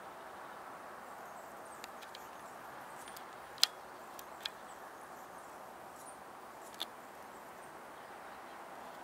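Scattered short, sharp, high bird chip notes, about eight of them, the loudest about three and a half seconds in, over a steady outdoor background hum.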